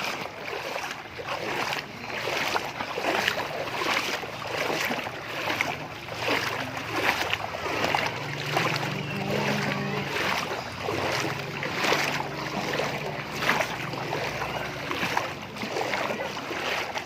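Repeated irregular splashing of floodwater, with people's voices in the background and a low hum midway through.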